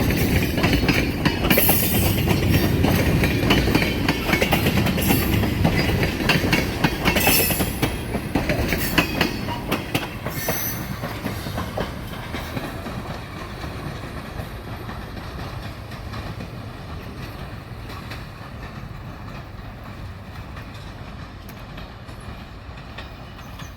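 Freight train rolling past, wheels clicking over rail joints with a few brief wheel squeals, then fading steadily as the train draws away.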